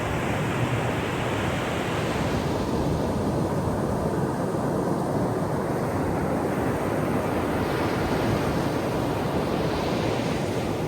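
Ocean surf on a shore: a steady low rumble under a hissing wash. The hiss of one wave fades about two seconds in, and the next wave builds and breaks near the end.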